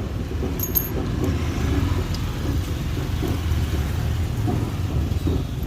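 Steady low rumble of road vehicles, with a few light metallic clicks about half a second to a second in.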